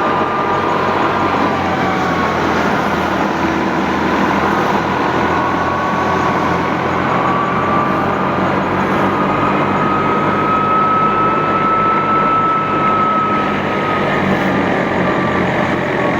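Al-Ghazi tractor's diesel engine running steadily under load while driving a threshing machine. A high whine wavers slightly in pitch over the steady engine note.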